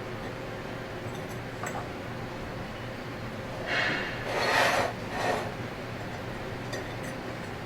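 Three short rubbing, scraping noises close together about four seconds in, over a steady low hum, with a few faint clicks.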